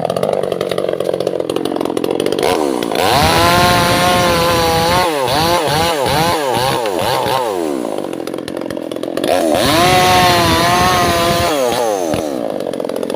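Two-stroke chainsaw running at low speed, then revved to full throttle about two and a half seconds in and cutting into albasia (sengon) wood, its engine note wavering under load. It eases off briefly past the middle, revs up and cuts again, then drops back to idle near the end.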